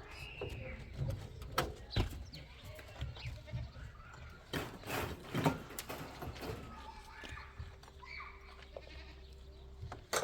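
Bleating of farm livestock, one clear call near the start and fainter calls later, with scattered sharp knocks and scrapes in between.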